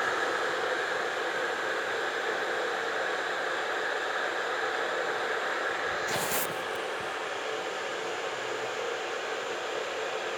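Hölmer electric kettle heating 1.8 litres of water, with a steady rushing hiss as the water works up toward the boil. A brief click about six seconds in.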